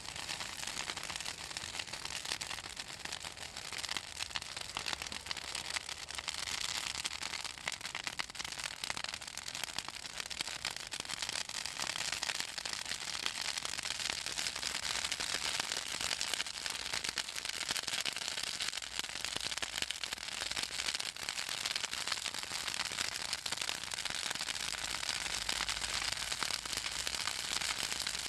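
Bonfire of Southern magnolia branches crackling and popping continuously, a dense stream of small snaps over a steady hiss. The oil in the magnolia wood and leaves makes it crackle as it burns.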